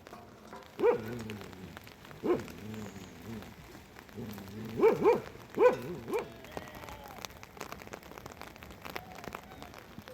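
A dog barking about six times in short, separate barks, with a quick pair about five seconds in, over the steady patter of rain.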